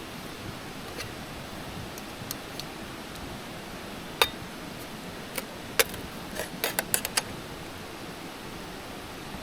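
About a dozen sharp clicks and light clinks of small hard objects, the loudest about four seconds in and a quick run of them between six and seven seconds in, over a steady hiss.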